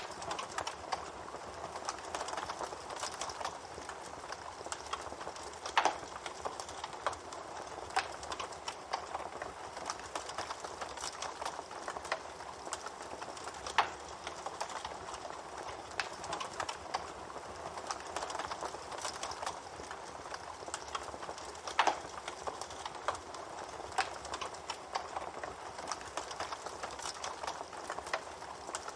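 Campfire crackling steadily, a dense run of small snaps over a soft hiss, with three louder pops spread through it.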